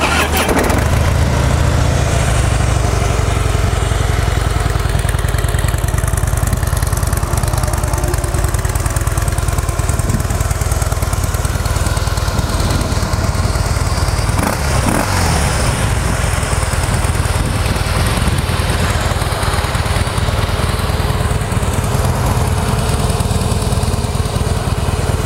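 A 2014 Harley-Davidson Breakout's 103-cubic-inch air-cooled V-twin, with its factory exhaust, starts right at the beginning and then idles steadily.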